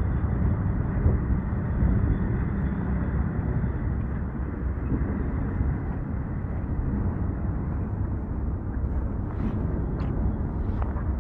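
Strong wind buffeting the microphone: a steady, low, rumbling rush that rises and falls a little, with a few faint short clicks near the end.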